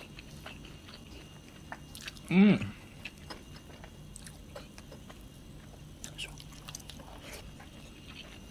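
Close-miked eating sounds of a man chewing rice and curry, with faint wet mouth clicks. About two and a half seconds in there is one brief hum from the voice, rising then falling in pitch.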